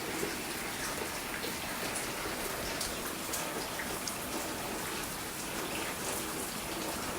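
Steady rain falling as a thunderstorm eases off, an even hiss with scattered ticks of drops.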